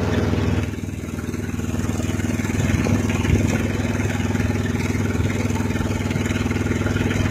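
Car engine running at steady revs with a fast, even pulse during a street drag race, as two cars pull away down the road.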